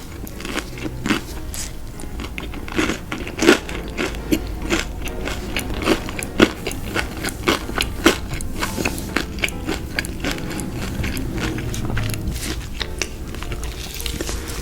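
Close-miked eating of crunchy fried food: crisp bites and chewing, with many sharp crackles coming thickest in the middle.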